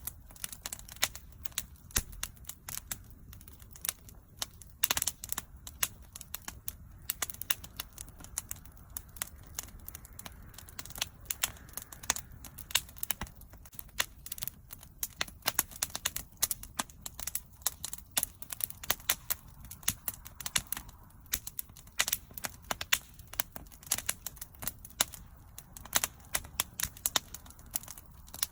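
Wood bonfire burning, with continual irregular crackles and sharp pops over a low steady rumble of the flames.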